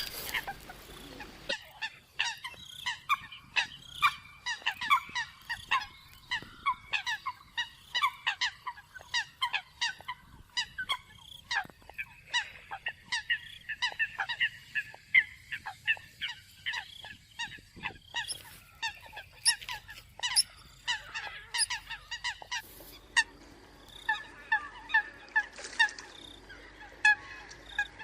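A flock of Eurasian coots calling: many short, sharp honking calls in quick, overlapping succession. The background changes abruptly about a second and a half in, and a low hum comes in near the end, like joins in a looped recording.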